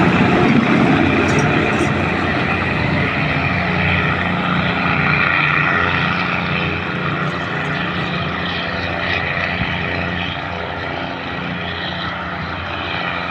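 Diesel train's engine running with a steady low drone and rushing noise, slowly getting a little quieter.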